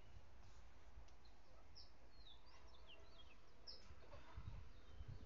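Small birds chirping faintly: a scatter of short, quick high chirps and brief downward-sliding notes, over a low steady rumble.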